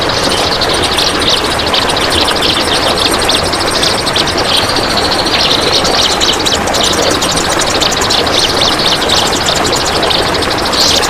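Kapas tembak bulbul singing a long, unbroken run of rapid, tightly packed chattering notes ("besetan rapat"), over a steady background hiss.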